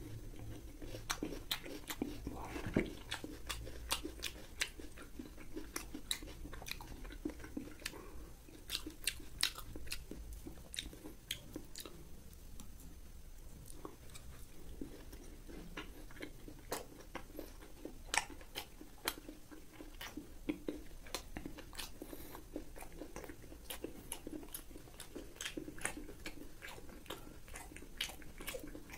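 Close-miked chewing and biting of fried pork, with many short, irregular crunches and wet mouth clicks.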